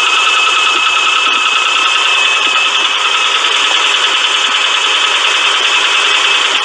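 Car engine running steadily, a loud mechanical noise with a high steady whine that fades about two seconds in. It is the running noise of an engine with a bad, loose timing belt tensioner.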